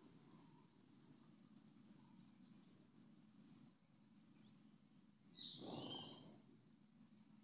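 Faint outdoor ambience with a thin, high chirp repeating every half second or so. About five and a half seconds in comes a brief, louder burst of bird calls over a rustle.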